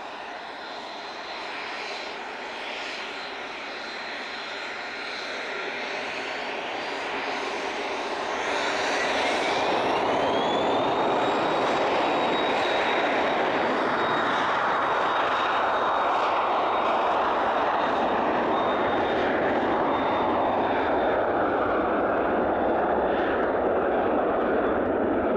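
Embraer Phenom 300 business jet's twin Pratt & Whitney Canada PW535E turbofans spooling up for takeoff. A steady high whine, then a whine that rises in pitch about a third of the way in as thrust comes up, and the jet noise grows louder and holds loud.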